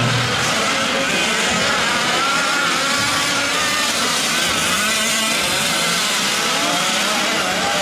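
Several 1/5-scale gas RC trucks' small two-stroke engines buzzing together as they race, their pitches rising and falling with the throttle.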